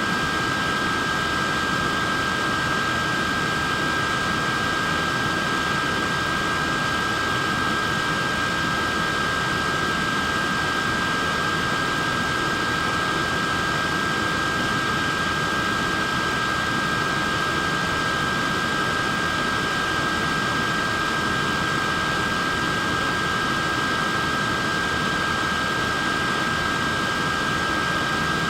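Wearable neck fan running steadily: an even rush of air with a constant high whine from its small motor and blades.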